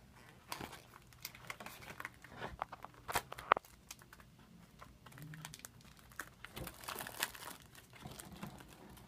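Crinkly packaging of a Shopkins blind basket being handled and torn open: a run of irregular crackles and rustles, with a sharp snap about three and a half seconds in and a denser stretch of crinkling around seven seconds.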